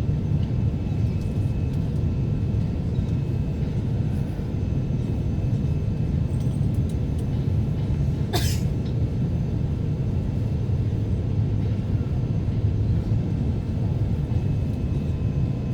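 Steady low rumble of cabin noise inside an Airbus A350 airliner in flight, with one brief sharp sound about halfway through.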